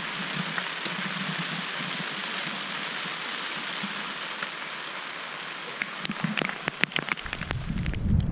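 Steady rain pattering on a tent's nylon fabric, heard from inside the tent. Near the end come a run of sharp clicks and knocks, then wind buffeting the microphone.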